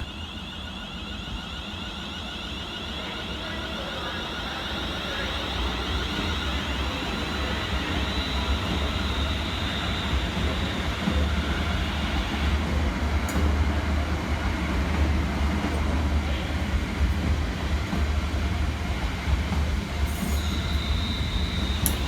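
Two coupled Class 350 Desiro electric multiple units departing, with traction motors and wheels on the rails making a steady running sound and a thin high whine. The sound grows gradually louder over the first dozen seconds or so.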